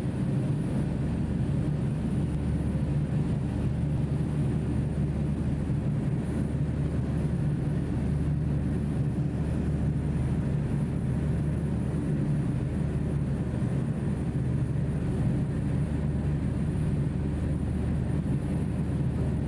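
Passenger ferry's diesel engines droning steadily, heard on board as an even, low rumble.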